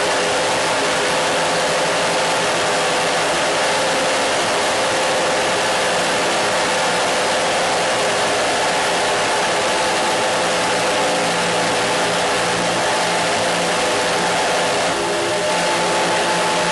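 Steady, dense noise with several faint steady hum tones running under it, unchanging except for a brief shift in the tones about fifteen seconds in.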